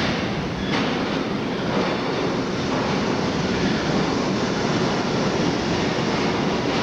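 Subway work train of R22 and R30 work motors hauling refuse flat cars running on the tracks, a steady rumble of wheels and motors, with one short sharp click under a second in.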